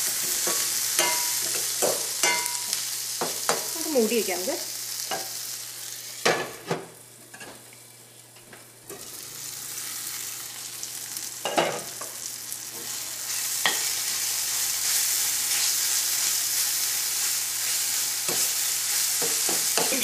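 Chopped onion, chilli and tomato sizzling in hot oil in a stainless steel pan as the tomatoes cook down, with the repeated clink and scrape of a metal utensil stirring against the pan. The sizzle dies down for a couple of seconds about seven seconds in, then comes back.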